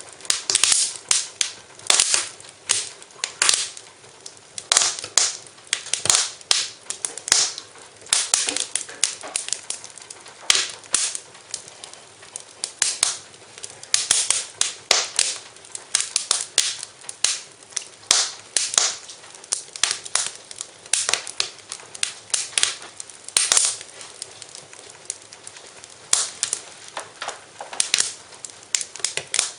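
Wood fire in a fireplace crackling, with irregular sharp pops and snaps coming in quick clusters.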